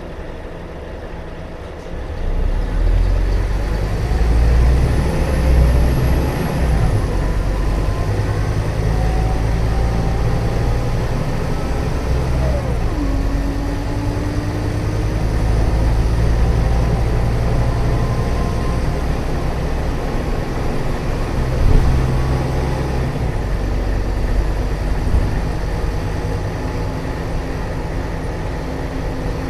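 Scania K320UA bus's rear-mounted 9.3-litre five-cylinder turbo diesel (DC09) running, a deep steady rumble that grows louder about two seconds in.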